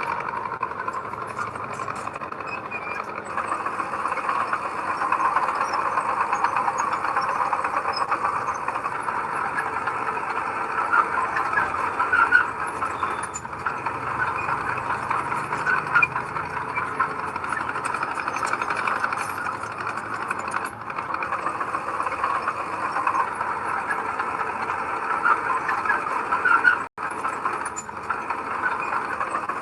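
Heavy earthmoving machinery at work: a diesel engine running steadily under load. The sound cuts out for an instant near the end.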